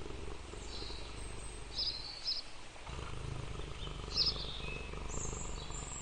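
Cheetah growling: a low rough rumble in two long stretches, breaking off briefly about halfway, with a few short high chirps over it.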